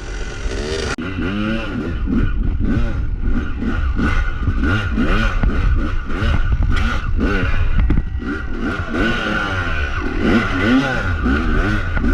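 Yamaha YZ250 two-stroke single-cylinder dirt bike engine revving up and down over and over in quick blips while climbing a rocky hill, with some clattering.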